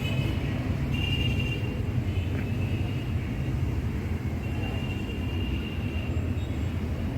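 Steady low rumble of background room noise, with faint thin high tones coming and going.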